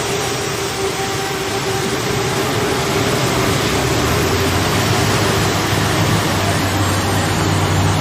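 Modified pulling tractor's engines running loud and steady, with a deep low drone that grows stronger after about five seconds.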